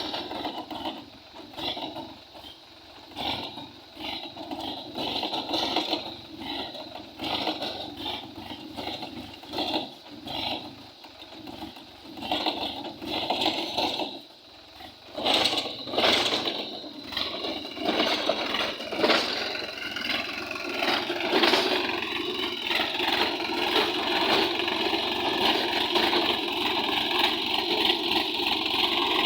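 Tractor engine running under load as it pulls a plough through a field. Its sound rises and falls unevenly at first, then about halfway through settles into a steadier, louder run.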